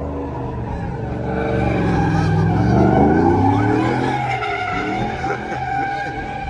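Truck engine revving hard while its tyres squeal in a sideways slide; the engine note dips and climbs again about two to three seconds in, loudest around three seconds.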